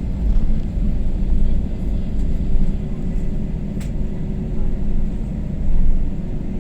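Airliner landing: a steady low rumble of engines and airflow with a faint steady hum over it, and one short click about four seconds in.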